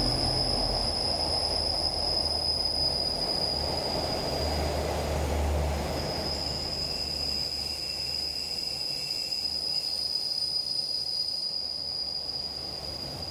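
A diesel-hauled express passenger train rolls into a station past the platform. The locomotive's low engine rumble passes in the first half, then the carriages roll by, with a steady high squeal throughout that breaks off briefly about six seconds in.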